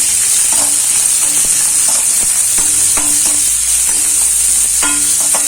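Chopped onion sizzling in hot oil in a kadai, being stirred, with a utensil clicking against the pan several times.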